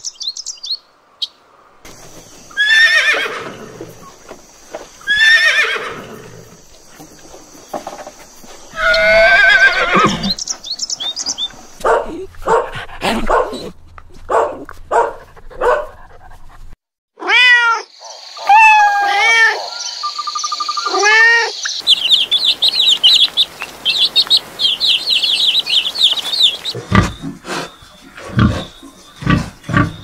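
A run of different animal calls in turn. First two long, falling horse whinnies, then short yelping calls from a small dog around the middle. Next comes a stretch of fast, high twittering, and near the end a pig's low, quick grunts.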